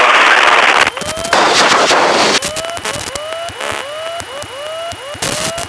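Aircraft radio/intercom audio: two bursts of static hiss, then a string of clicks, each followed by a short rising chirp, about three a second, over a faint steady high whine, typical of electrical interference on the headset feed.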